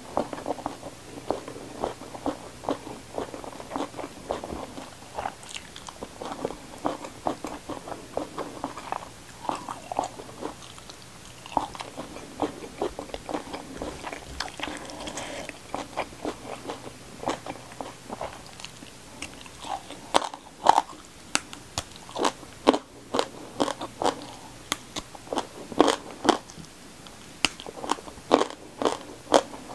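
Close-miked chewing and biting of a mouthful of fried fish, rice and raw vegetables, with many sharp crunches that come thicker and louder in the second half. Around the middle comes a soft squish of food being mixed by hand.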